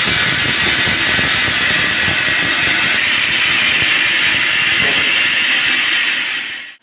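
Band sawmill blade cutting through a log: a loud, steady hiss with a fine rattle underneath. The sound dies away and cuts off abruptly at the very end.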